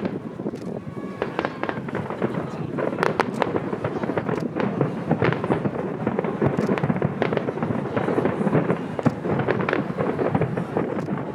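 Aerial fireworks bursting in rapid succession, a dense run of bangs and crackles that grows busier after the first few seconds.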